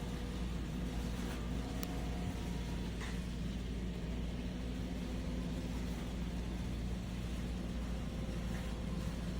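N scale model trains running on a layout: a steady hum of small locomotive motors and wheels on track, with a couple of faint clicks about two and three seconds in.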